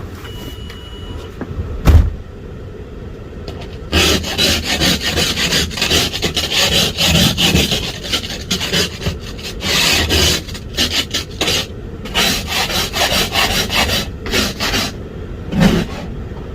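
A single thump about two seconds in, then a long run of irregular scraping and brushing strokes as snow is cleared off a car.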